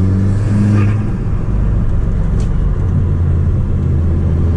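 Audi S3 8P's tuned 2.0 TFSI turbocharged four-cylinder engine, fitted with an aftermarket downpipe, running steadily under way with a low, even drone.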